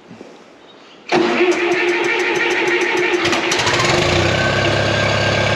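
International 424 tractor engine cranked by its starter about a second in, with a steady whine and rapid even ticks. After about two and a half seconds of cranking it catches and settles into a steady idle.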